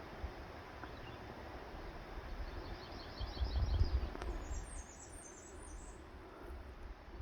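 Songbirds singing: a quick run of short, evenly repeated high notes about three seconds in, followed by a burst of even higher chirps, over a steady low rumble that swells briefly near the middle.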